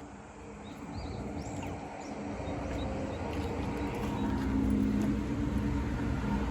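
Steady low mechanical hum that slowly grows louder, with a few faint high chirps in the first two seconds.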